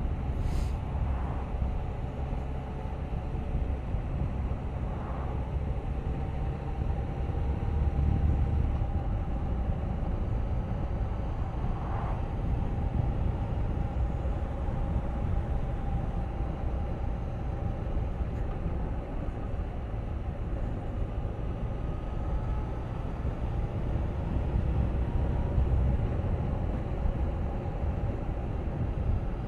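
Suzuki GSX1250FA's inline-four engine running steadily on the move, with a pitch that drifts only slowly, under a heavy low rumble of wind and road noise.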